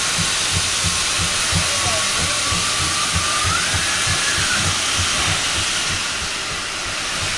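Steam locomotive hissing steady steam, with a low pulse repeating about three times a second underneath.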